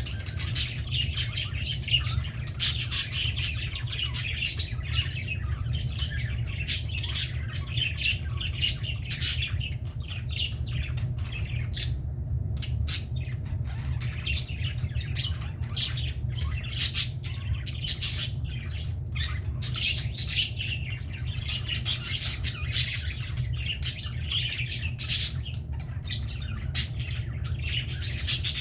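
A group of budgerigars chattering and squawking without a break, many short chirps and scratchy calls overlapping. A steady low hum runs underneath.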